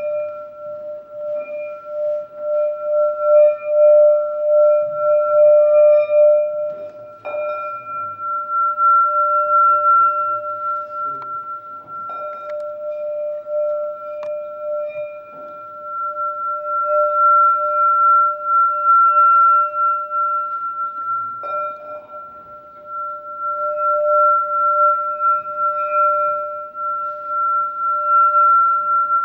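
A metal singing bowl sings with a steady low tone and a higher ringing tone above it, its volume swelling and fading in waves. The low tone is renewed twice, about seven seconds in and again past twenty seconds, each time with a faint knock.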